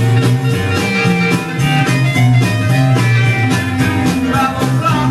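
Instrumental break of a 1960s blues-rock band recording: guitar lead over bass and a steady drum beat, with no vocals.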